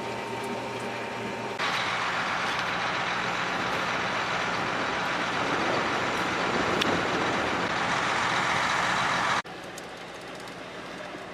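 Combine harvester running with a steady engine hum. About a second and a half in, a louder rushing machine noise cuts in suddenly, and near the end it cuts off sharply, leaving a quieter engine hum.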